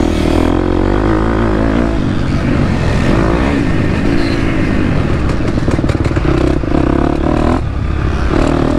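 2023 KTM 250 SX-F's single-cylinder four-stroke engine revving under load. The pitch rises and falls with the throttle and drops off briefly near the end, with some clatter from the bike about halfway through.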